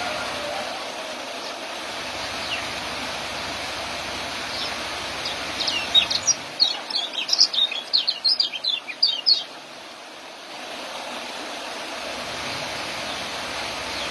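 Young kecial songbird singing a fast run of high chirping notes, its ngeriwik chatter, for about five seconds in the middle, over a steady background hiss.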